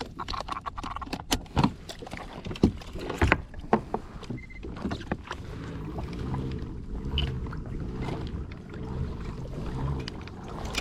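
Sharp knocks and clatter on a fishing kayak as gear is handled. From about halfway, a steady, evenly pulsing low sound of the kayak moving on the water.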